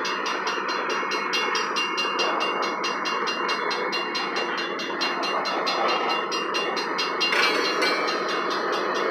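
Loaded covered hopper cars of a freight train rolling past close by: a steady rumble and rattle of steel wheels on rail, with a fast regular clicking and a short high squeal near the end.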